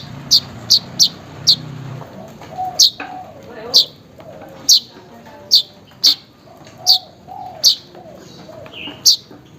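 Weaver bird (manyar) calling: a run of sharp, high, short chips about once or twice a second, with lower warbling notes between them through the middle.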